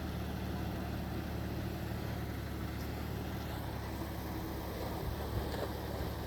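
Heavy diesel engine of an earthmoving machine running steadily with an even hum, with a few faint knocks in the second half.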